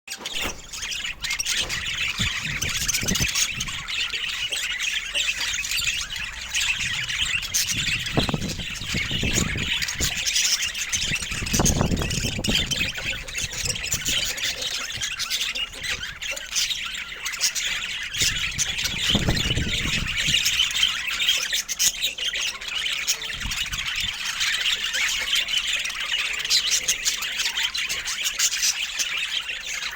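Budgerigars chattering and squawking without a break, in a dense, high-pitched warble, with a few brief low rumbles in the middle.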